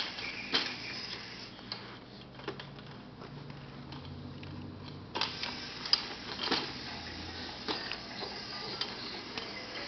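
Irregular plastic clicks and rattles from a baby's rainforest bouncer as its hanging toys are batted and grabbed, over a faint steady hum.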